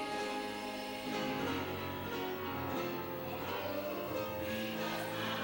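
Church gospel band playing an instrumental passage between the choir's sung lines of a slow gospel song: sustained chords over a steady bass line.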